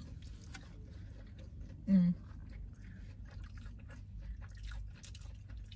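Close-up chewing and biting: irregular wet mouth clicks and smacks from someone eating a battered Korean corn dog, with a short hum about two seconds in.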